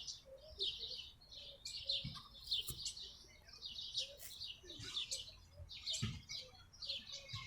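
Small birds chirping in short, repeated high notes, with a few faint low thumps.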